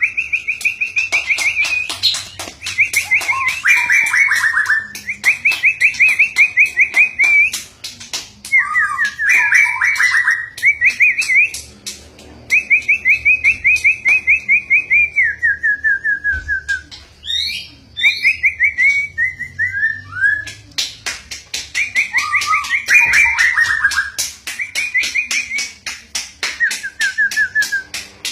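White-rumped shama singing loud and almost without pause: long fast trills held on one pitch, some phrases sliding down, mixed with sharp clicking notes.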